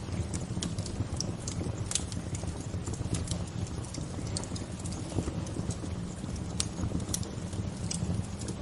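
Wood fire crackling: irregular sharp snaps and pops over a steady low rushing noise.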